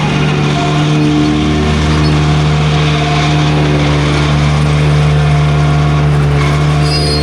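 Case IH Maxxum 150 tractor engine running steadily under load while pulling a Case IH DC133 disc mower-conditioner through alfalfa hay.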